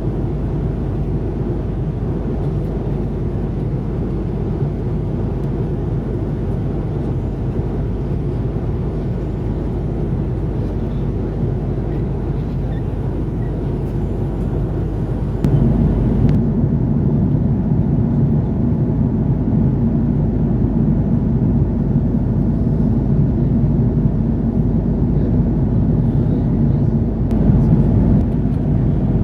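Steady low rumble of an Airbus A330-300 airliner cabin, the noise of engines and airflow heard from a passenger seat. About halfway through it steps up louder and deeper.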